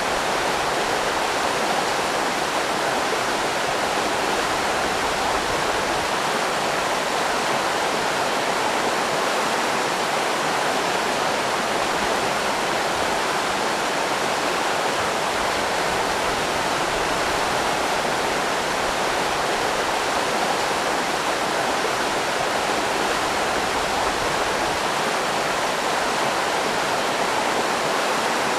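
River rapids rushing, a steady even roar of water.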